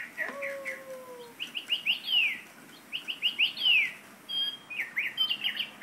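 Caged pet parrot singing: quick runs of short chirps, each sweeping up and then down, in three bursts with short pauses between them. A lower, drawn-out falling note sounds near the start.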